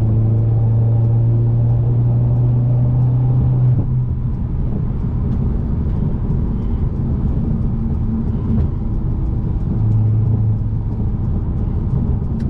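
Car engine droning steadily while driving, over continuous road rumble; the drone eases about four seconds in and comes back briefly near the end.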